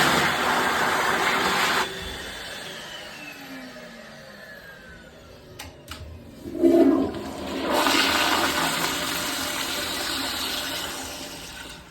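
Toilet flushing twice: a loud rush of water that stops abruptly about two seconds in, a few clicks and a knock a few seconds later, then a second flush that fades out near the end.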